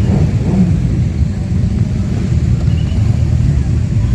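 Superbike engines running, a steady low rumble.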